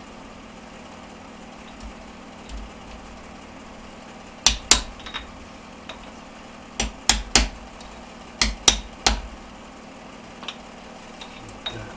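Hammer tapping a ring down to seat it on a gearbox output shaft. About eight sharp strikes in three quick clusters of two or three, with pauses between.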